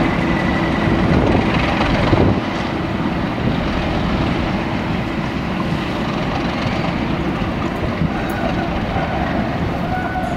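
A train running at the station platform: a loud, steady rumble of engine and wheels. A steady hum in it stops about two seconds in, and the sound then goes on a little quieter.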